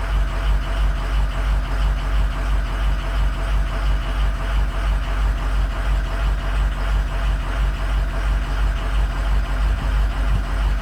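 Ford 6.0 Powerstroke V8 turbo-diesel idling steadily with an even pulsing beat, during a cylinder contribution test on an engine with bad injectors on cylinders 5, 2 and 7.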